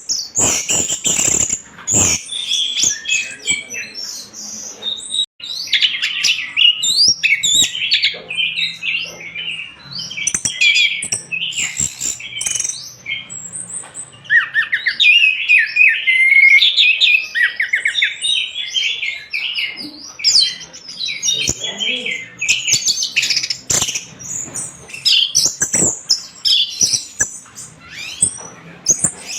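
Orange-headed thrush (anis merah) singing vigorously: a dense, continuous run of rapid, varied high notes and harsh chattering phrases with barely a pause.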